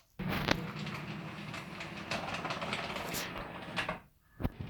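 Model railway locomotive running on the track, its small motor humming and wheels clattering, then cutting out about four seconds in as the train stalls on a corner it keeps stopping at. A sharp click follows near the end.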